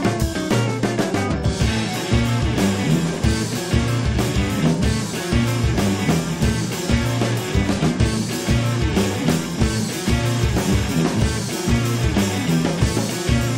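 Rock band playing a song, with electric guitar, a drum kit and a repeating bass line.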